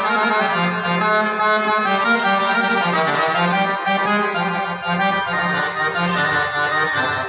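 Solo accordion playing an Arabic taqasim improvisation, a continuous melodic line of shifting held notes over a low sustained tone.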